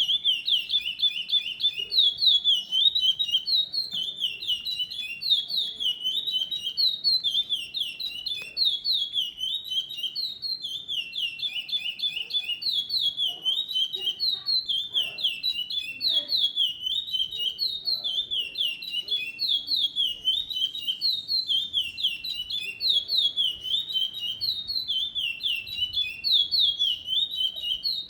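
A songbird singing a long, unbroken song of rapid high notes, each a quick downward slide, repeated in tight phrases without pause.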